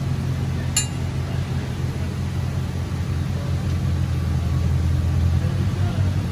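Steady low workshop hum, with a single metallic clink just under a second in, as of metal tools and engine parts knocking together during work under the engine.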